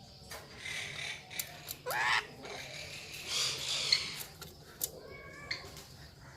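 Parrot calls: a few short, harsh squawks and screeches, one sweeping sharply upward about two seconds in, with scattered small clicks.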